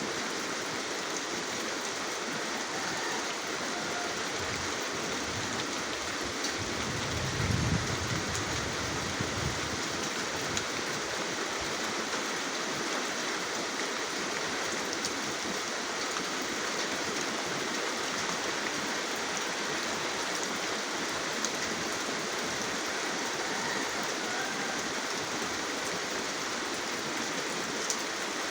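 Steady rain falling: an even hiss with scattered faint drop ticks. A brief low rumble comes in about seven seconds in and fades over two seconds or so.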